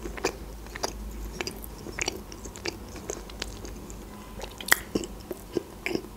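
Close-miked chewing of a soft Barni sponge-cake bear, with irregular small mouth clicks throughout and a sharper click near the end.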